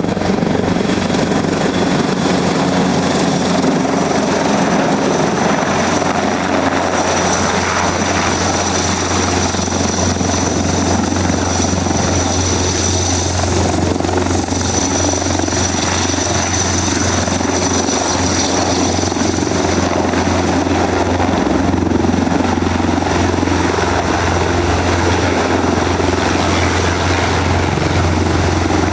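Helicopter running close by at a steady, loud level: a continuous low rotor drone with a thin, steady high whine over it.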